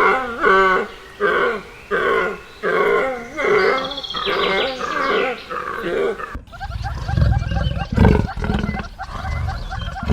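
Animal calls: a run of short repeated calls that bend in pitch, then an abrupt change about six seconds in to deep, low rumbling growls.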